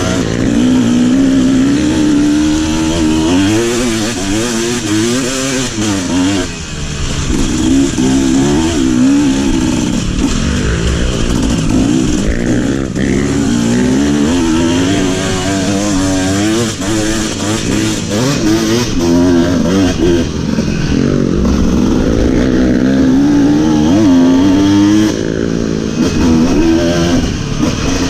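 Trail motorcycle engine running under load, its revs rising and falling again and again as the throttle is worked.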